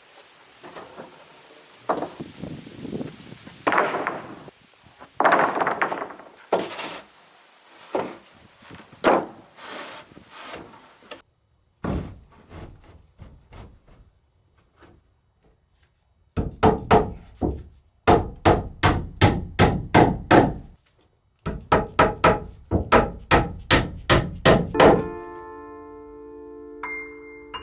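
Hammer striking nails: three runs of quick, even blows, about three a second, each with a short metallic ring, after a stretch of irregular scraping and handling noises. Music comes in near the end.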